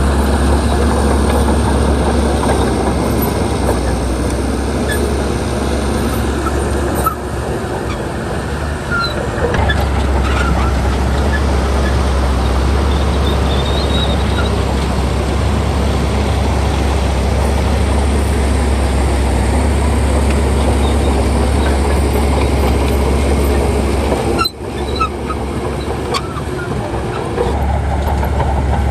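Heavy diesel earthmoving machinery running under load, a steady low engine drone with broad mechanical noise over it, dipping briefly twice.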